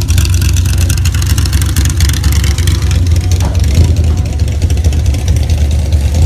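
A loud car engine idling with a deep, steady exhaust rumble, strong enough that the ground can be felt shaking.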